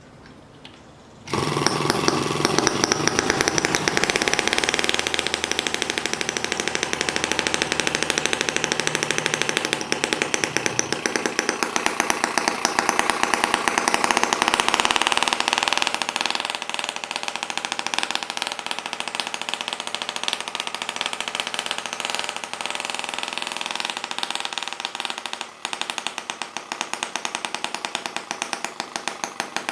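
Small model engine running fast with rapid, even firing pulses, cutting in abruptly about a second in and easing slightly in loudness about halfway through.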